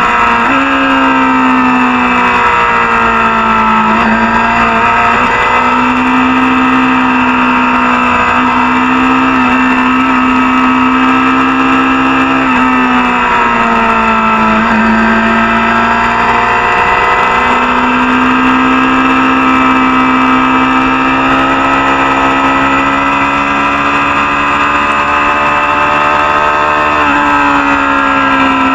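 Racing motorcycle engine held at high revs at race pace. Its pitch dips and climbs back several times, around 4 s, from about 12 to 17 s and near the end, as it shifts gear and comes on and off the throttle.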